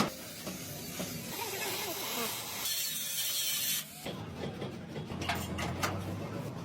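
A hiss that grows louder and cuts off abruptly about four seconds in, followed by a low hum and a few sharp taps.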